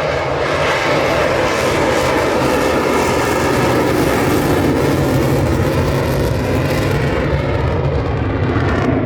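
Fixed-wing aircraft flying past, its engine noise loud and steady throughout.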